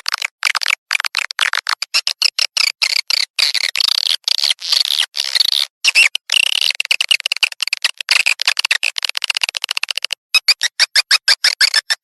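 Swiftlet calling-sound recording: dense, rapid chirping and twittering of swiftlets, the lure audio played to draw swiftlets into a swiftlet house. There is a brief pause about ten seconds in.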